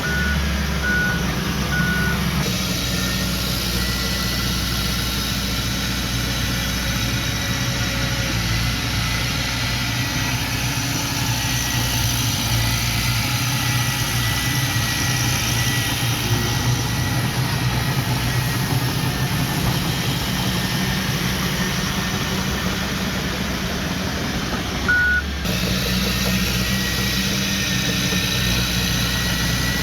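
Heavy earth-moving machinery engine running steadily, with three short reversing beeps in the first couple of seconds and one more beep near the end.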